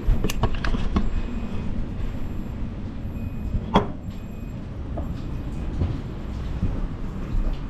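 Gale-force wind, gusting to about 40 knots, rumbling steadily around a docked catamaran. Scattered sharp knocks and clicks sound through it, the loudest just before the midpoint.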